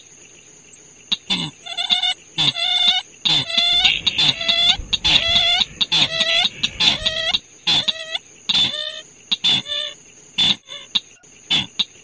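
Recorded bird calls for luring night birds: a run of loud, harsh notes repeated rapidly in quick series, over a steady high-pitched tone, then thinning to scattered short notes near the end.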